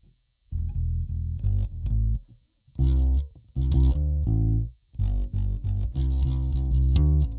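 Epiphone EB-0 SG-style short-scale electric bass played in phrases of single plucked notes, separated by brief pauses. It plays clean, with the line dark and free of hum between the phrases after repairs cured its earlier bad hum.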